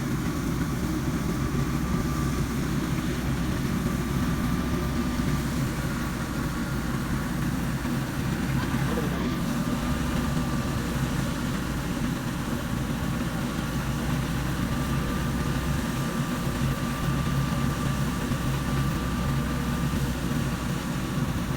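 Tractor engine running steadily, driving farm machinery during wheat harvesting.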